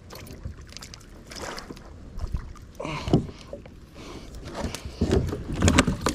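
Irregular knocks and clatter of gear against a kayak hull while a hooked largemouth bass is brought in with a net, the loudest knocks about three seconds in and near the end.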